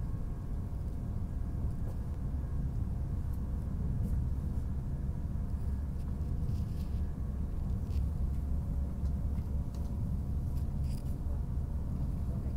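Steady low rumble of a high-speed train running at speed, heard inside the passenger carriage, with a faint steady hum above it.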